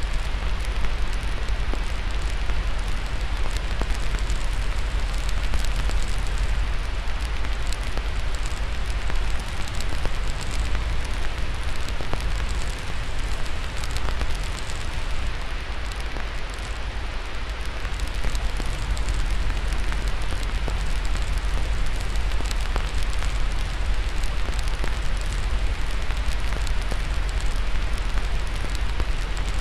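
Crackling fire with many small snaps and pops over a steady white-noise hiss and a low rumble.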